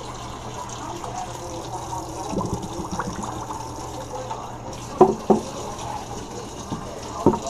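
Kitchen tap running water into a humidifier's water tank. Two sharp knocks come about five seconds in, and another near the end.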